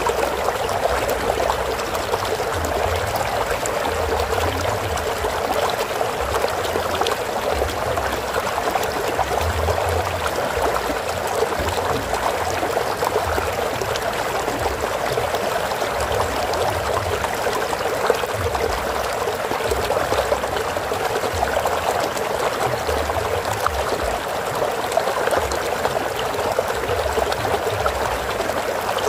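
Running water of a stream flowing and trickling over rocks, a steady, even rushing with a low burble underneath.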